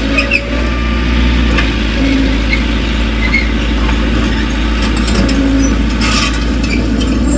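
Heavy diesel engine of a crawler bulldozer running steadily, with a few short metallic squeaks from its steel tracks near the start.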